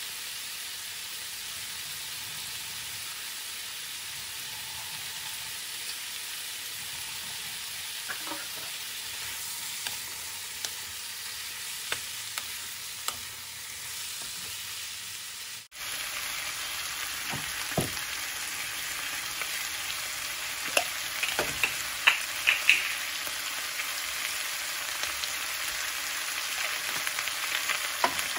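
Chicken pieces with onion and ginger sizzling as they brown in oil in a nonstick wok, with a wooden spoon scraping and knocking against the pan as they are stirred. The sizzle gets louder a little past halfway, and a quick run of spoon knocks follows a few seconds later.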